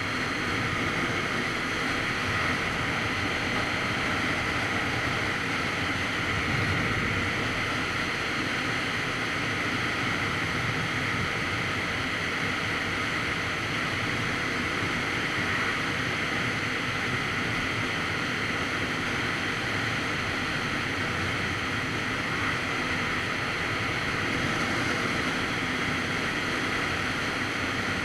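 Steady wind noise buffeting the microphone of a Kawasaki Z900RS Cafe motorcycle at a constant cruise, with the bike's inline-four engine running beneath it. The level stays even throughout.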